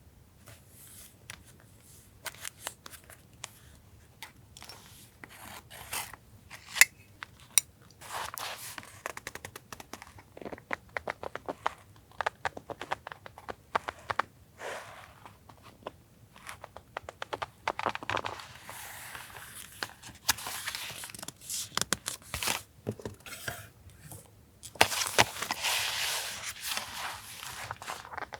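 Paper collage materials being handled: crinkling, tearing and scattered sharp taps and clicks. There is a longer stretch of rustling and tearing near the end.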